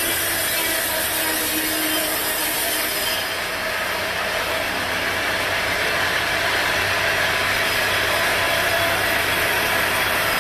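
Sawmill machinery running: a powered saw cutting through wood over a steady engine hum. The high hiss of the cut eases about three seconds in.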